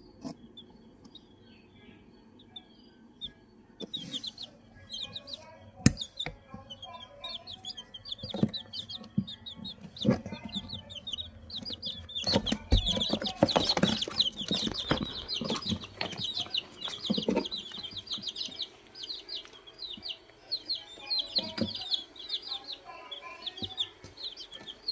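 Chickens: many rapid, high-pitched peeps from about four seconds in, mixed with a few lower clucks and scattered knocks and bumps. The calls are busiest in the middle of the stretch.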